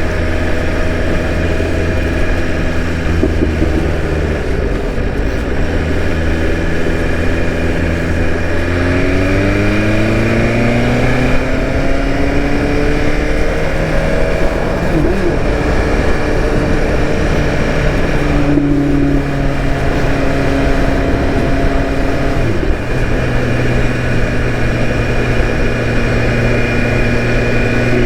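BMW S1000RR's inline-four engine running under way, with steady wind noise. It holds steady revs, rises in pitch as it accelerates about nine seconds in, then settles to a steady note again.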